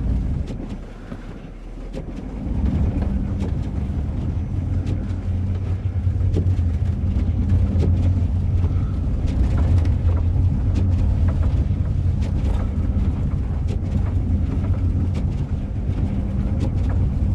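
Ram ProMaster van's engine pulling under load through deep snow; it comes up about two seconds in and holds a steady drone, with scattered faint clicks and crunches.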